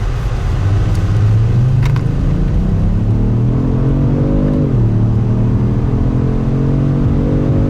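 2018 Kia Stinger GT1's twin-turbo V6 under hard acceleration, heard from inside the cabin. The engine note climbs steadily, drops suddenly at an upshift a little past halfway, then climbs again toward the next shift.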